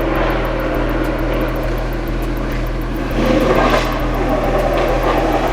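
A loud car engine running, getting louder about three seconds in.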